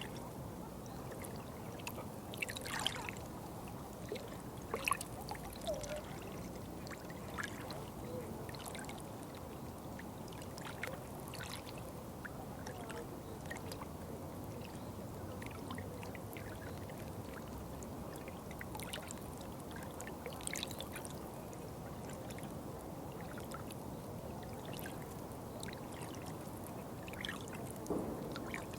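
Running water trickling and splashing steadily, with frequent small splashes and drips scattered through it.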